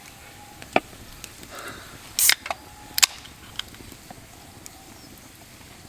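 Cooking utensils clinking and knocking against a pan and plates as food is served: a handful of sharp clicks, the loudest about two seconds in and another about three seconds in.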